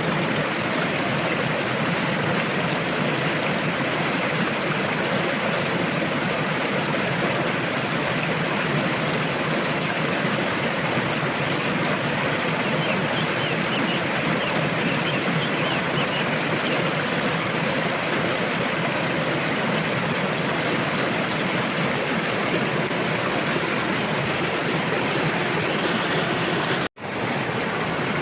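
A fast-flowing river rushing steadily: an even, continuous sound of water. It cuts out for an instant about a second before the end, then resumes.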